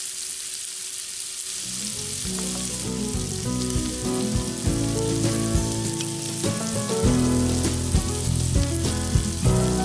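Shrimp sizzling in hot olive oil and butter in a cast-iron skillet, a steady frying hiss. About two seconds in, background music comes in and grows louder over the frying.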